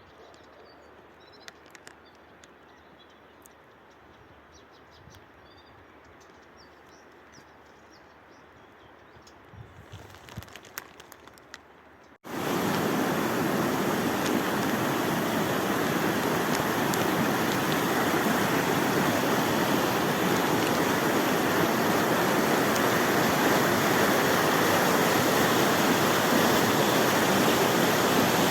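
Quiet open-air background with a few soft clicks and faint high chirps. About twelve seconds in, it cuts abruptly to the loud, steady rush of fast-flowing water from a mountain stream or waterfall.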